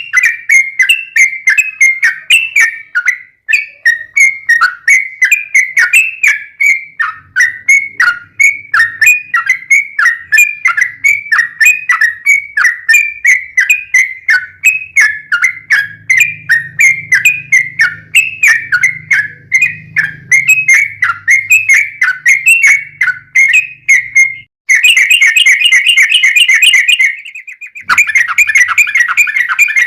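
Yellow-vented bulbul (trucukan) singing vigorously: a long, unbroken series of short, downward-slurred whistled notes, about three a second. Near the end it breaks into a faster, denser run.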